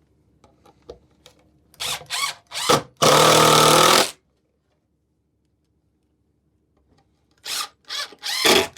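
Power drill driving two screws into wood. For each screw the motor gives a few short trigger pulses, then one steady whining run of about a second. The second screw's run begins near the end.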